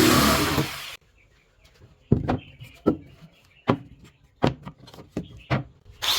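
A woodworking power tool running, then stopping about a second in. About eight sharp, irregular knocks follow, and the tool starts up again near the end.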